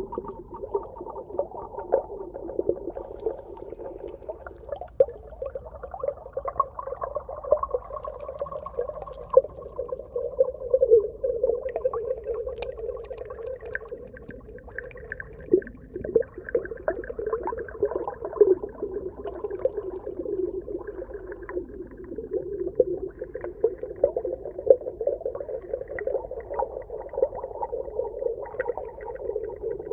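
Underwater ambience: a continuous, dull, muffled water sound sitting low in pitch, dotted with many small clicks and pops.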